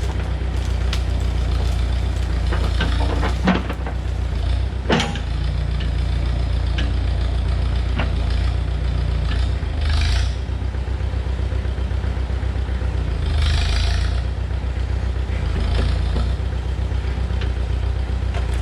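Tractor-backhoe engine running steadily at a low, even rhythm, with a few sharp metallic clanks and two short bursts of hiss.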